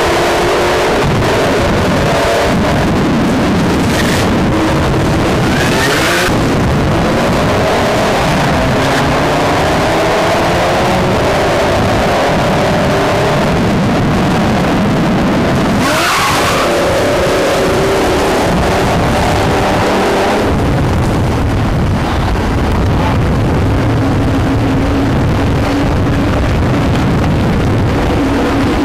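Drag-racing car engines accelerating hard with tyre squeal, and a loud pass-by about sixteen seconds in. In the last part, an engine runs steadily at lower revs.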